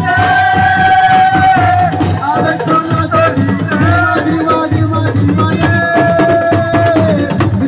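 Live Senegalese assiko music: fast, dense drumming and rattling percussion under long held, bending vocal notes.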